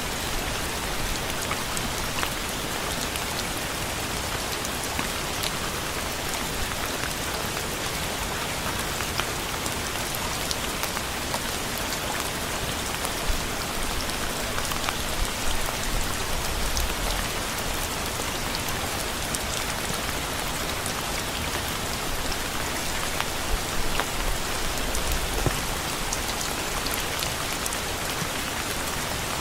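Steady, heavy rain falling on a surface, a dense even hiss with many individual drops ticking through it.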